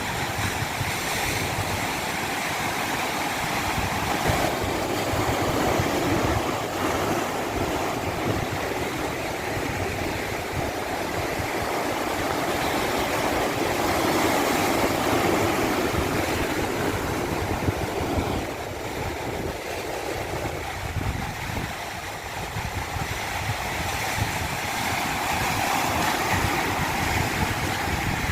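Running water, a steady rushing that swells and eases slowly every several seconds.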